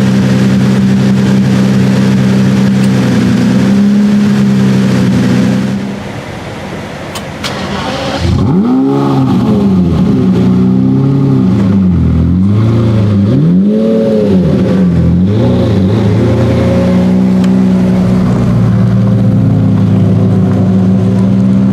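Lamborghini Murciélago V12 engine and exhaust running at a steady idle, then revved in several quick blips that rise and fall in pitch from about eight seconds in, before settling back to a steady idle.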